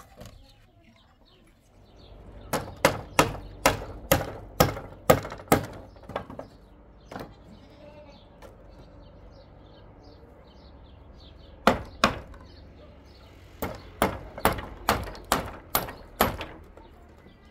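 Repeated sharp blows struck at about two a second, in runs: about nine early on, two near the middle, then about seven more toward the end.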